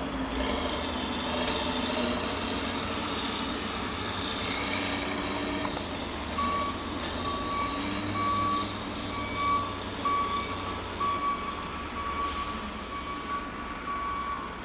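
Heavy mulching-yard machinery running with a steady engine drone. About halfway through, a reversing alarm starts beeping at an even pace, and a short hiss comes near the end.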